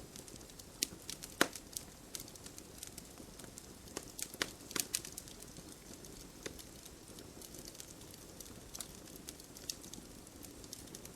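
Campfire burning: wood crackling with irregular sharp pops and snaps over a low, steady hiss of flame, the loudest pop about a second and a half in and a quick cluster of pops a little before the middle.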